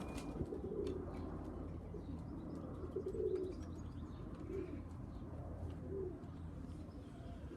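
Young pigeons cooing, a few short low coos spaced a second or two apart, with faint scattered clicks.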